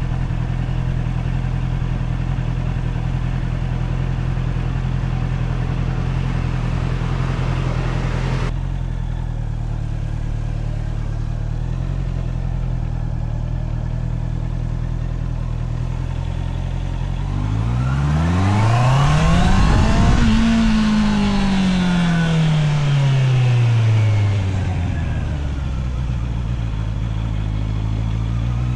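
Honda CBR650R's inline-four engine running at steady low revs, then revving up sharply about two-thirds of the way through and winding back down over several seconds, with the revs starting to climb again near the end.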